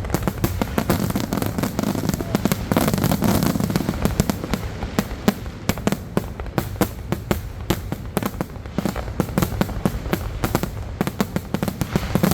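Fireworks display going off: a dense, unbroken run of sharp bangs and crackles, several a second, over a steady low rumble.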